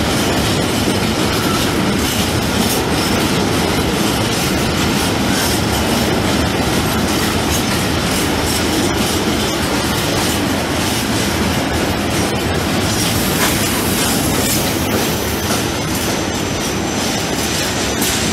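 Freight train of high-sided open wagons rolling past at speed: a steady rumble with the rapid clatter of wheels over rail joints. About two-thirds of the way through a high, steady wheel squeal sets in over the rumble.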